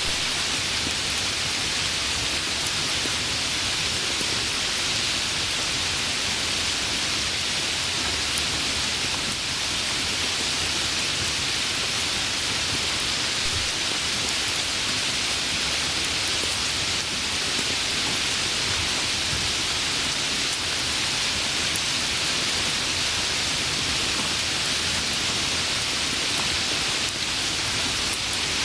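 Steady rain falling, an even hiss of many drops with no pauses.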